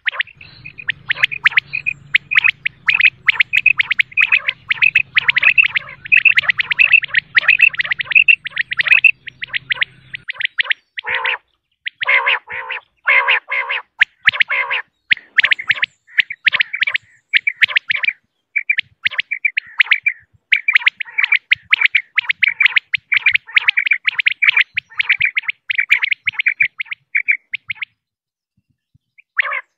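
Female common quail calling: a fast, even series of short high notes, several a second, with a stretch of harsher, lower notes about a third of the way in. A faint low hum runs under the first third, and the calls stop shortly before the end.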